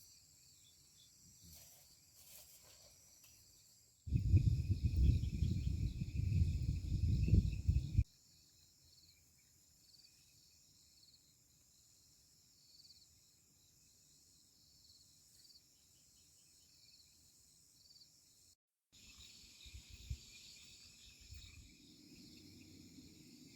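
Steady chorus of crickets and other insects, high and pulsing. About four seconds in, a loud low rumble lasts about four seconds and stops abruptly.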